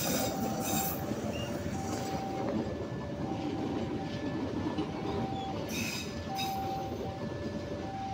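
Passenger coaches of a train rolling past on steel rails: a steady rumble of wheels on track, with short high wheel squeals recurring every second or so and a few metallic clanks.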